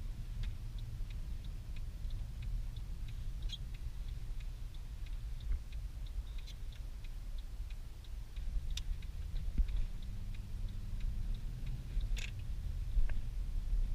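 Mercedes C63 AMG driving in snow, heard inside the cabin: a steady low engine and tyre rumble under a light, regular ticking of about three ticks a second. The engine note rises slightly and gets a little louder in the second half, with a few sharper clicks.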